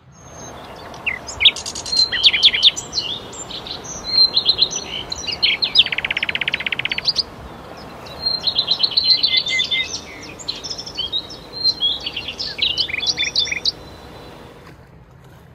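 Songbird song in rapid, high chirping phrases, with a buzzy trill lasting about a second near the middle, over a steady low hiss. The singing stops shortly before the end.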